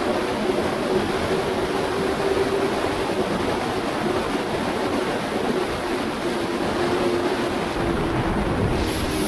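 Steady rush of wind noise while riding the Aprilia RSV4 1100 Factory at speed, with the V4 engine holding a steady, even note underneath.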